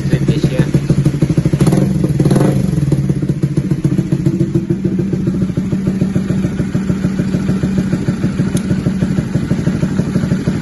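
Honda CB150R's single-cylinder engine idling through an Austin Racing aftermarket exhaust with its dB killer in sport mode, a steady pulsing note with a brief change about two seconds in.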